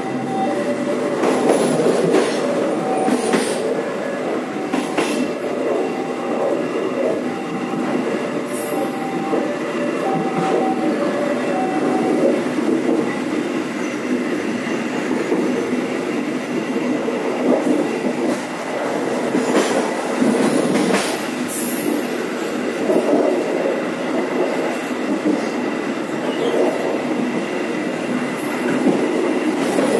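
Train running along the track: a steady rumble of wheels on rail, broken by scattered sharp clacks as the wheels pass rail joints and points. Short high squealing tones recur through about the first dozen seconds.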